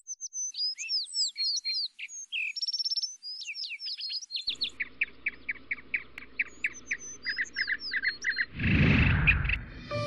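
Songbirds chirping and whistling in quick, varied calls, then a run of short repeated calls, two or three a second, from about halfway, over a faint steady hum. Near the end comes a loud rush of noise lasting about a second.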